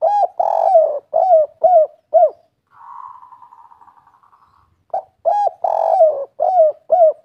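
Spotted dove (derkuku) singing its 'kuk 3' coo: two phrases of about six short cooing notes each, a few seconds apart. Between the phrases comes a quieter pulsing trill that fades out.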